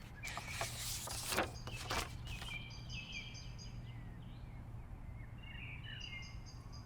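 Songbird singing: two runs of quick, evenly repeated high chirps with softer warbling notes between them, over a steady low hum. A few short rustling noises come in the first couple of seconds.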